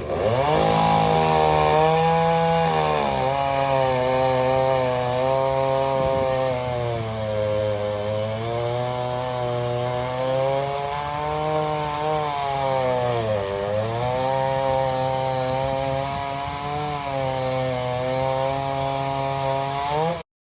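Vintage two-stroke chainsaw engine running hard, its pitch sagging and recovering several times as it works in a cut, dipping deepest about two-thirds of the way through. The sound cuts off abruptly near the end.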